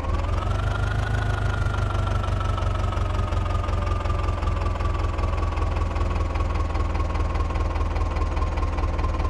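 Mahindra 275 tractor's diesel engine running with a steady low thrum and a whine that rises in pitch about a second in, then slowly sinks back over the next several seconds as the revs ease off.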